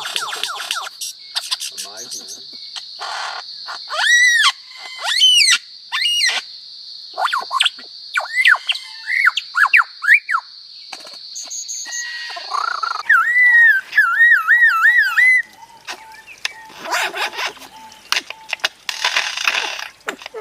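A mimicking bird whistling clear up-and-down notes in short groups, then a quick run of repeated rise-and-fall whistles, over a steady thin high tone that stops about two-thirds of the way through.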